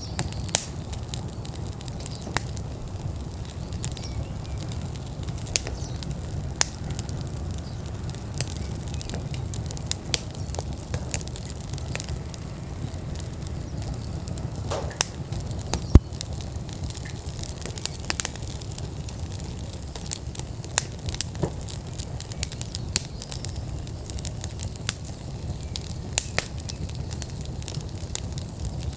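Wood fire burning in an outdoor fire pit, crackling with irregular sharp pops, one louder pop about halfway through, over a steady low rumble.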